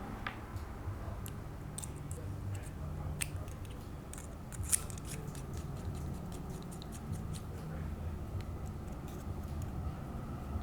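Scattered small, sharp metal clicks and handling sounds from a hand pin vise as its collet is changed and a 2 mm drill bit is fitted, with one louder click about halfway through, over a steady low hum.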